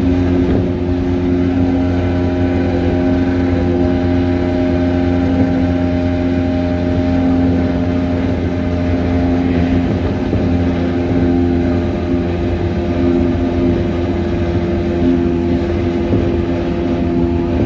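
Tokaido Line electric commuter train heard from inside the carriage while running at high speed: a steady whine of several held tones, from the traction motors and gearing, over the constant rumble of the wheels on the rails.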